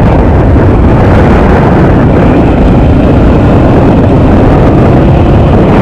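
Honda XR650L's air-cooled single-cylinder four-stroke engine running steadily while the bike is ridden.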